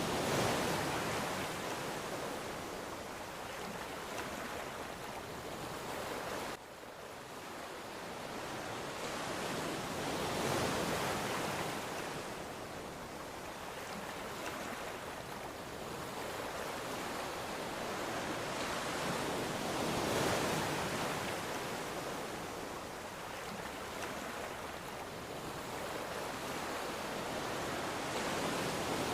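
Ocean waves breaking and washing in, swelling and fading in slow surges about every ten seconds. About six seconds in the level drops suddenly, then builds back up with the next wave.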